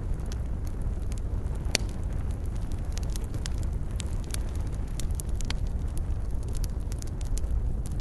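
Wood campfire burning: a steady low rumble of the flames with frequent irregular crackles and snaps of burning wood, one sharper pop a little under two seconds in.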